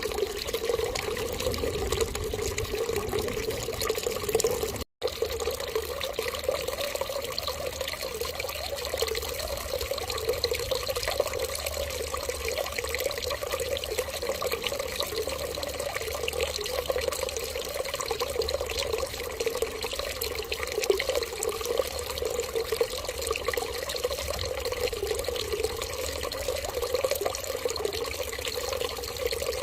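Running water, a steady trickling stream like a tap left running. The sound cuts out for an instant about five seconds in.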